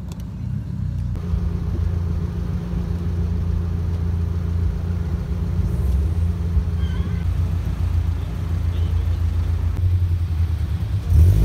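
Car engine idling with a low steady rumble, swelling briefly louder near the end.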